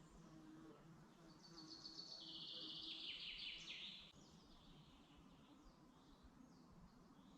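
A songbird sings one loud phrase of fast trills that step down in pitch, starting about a second in and stopping about four seconds in. Fainter bird calls come before and after it.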